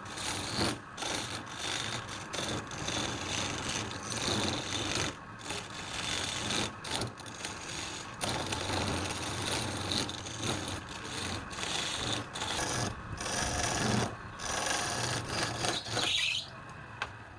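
A tool rasping and scraping against wood in uneven strokes, stopping about a second before the end.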